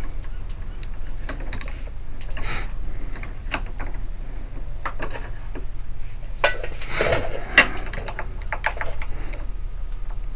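Irregular small metallic clicks and scrapes of a pick working the wafers inside a car trunk lock cylinder as it is picked, with two brief scraping rasps, about two and a half and seven seconds in. A steady low hum runs underneath.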